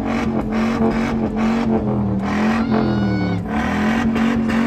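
Car engine held at high revs in a rev-off, its pitch wavering slightly, with a brief rising whistle about three seconds in.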